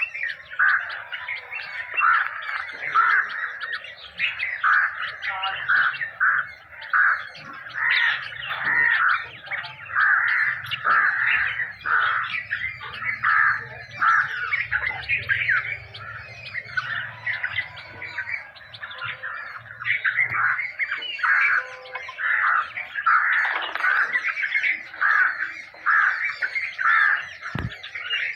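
Hungry young nightingales calling over and over, a dense run of short, high, rasping calls about two a second as they beg for food.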